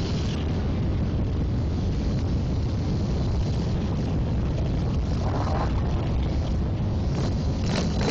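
Steady low engine rumble with road and tyre noise from motorcycles riding a rain-wet highway, with a few brief higher sounds near the end.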